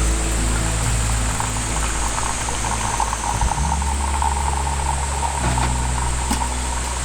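Hot oil sizzling and crackling as chicken karaage deep-fries in an iron wok, over soft background music with slow, held bass notes that change every couple of seconds.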